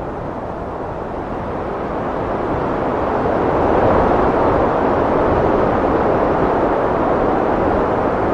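Heavy wind blowing as a loud, even rush, swelling into a stronger gust a few seconds in and then holding steady.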